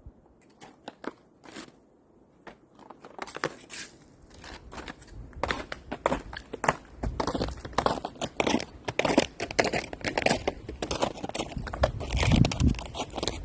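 Crunching footsteps through the woods, sparse at first, then steady and louder after a few seconds. Wind rumbles on the microphone underneath.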